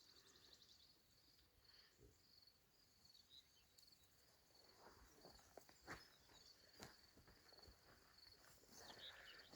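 Near silence: faint, steady chirping of crickets, with a few soft taps or rustles about halfway through.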